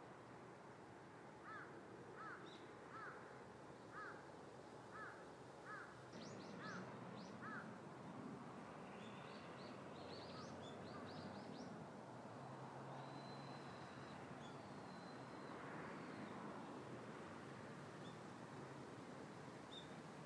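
A bird calling about eight times in an even series, a bit faster than once a second, followed by quick high chirps from smaller birds, all faint over steady background noise.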